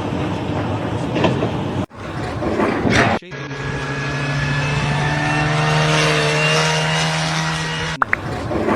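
A rough, noisy rumble, cut off after about two seconds; then, from about three seconds in, a steady mechanical drone at one held pitch for about five seconds, like a motor or engine running.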